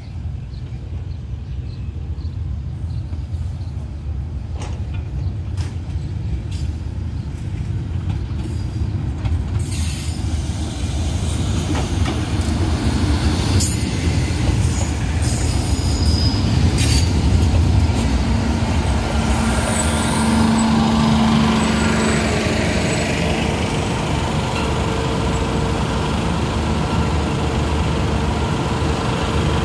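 Diesel passenger train pulling into a station loop: a low rumble that grows louder as it nears, with the wheels clicking over rail joints and points, then a steady run as the coaches slow past the platform.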